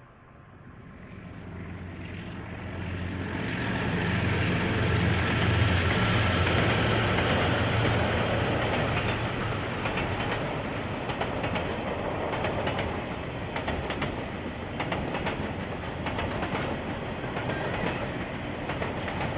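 KiwiRail diesel-hauled train passing: the locomotive's engine hum builds to its loudest about five seconds in, then the wagons roll by with a steady run of clicks from the wheels over the rails.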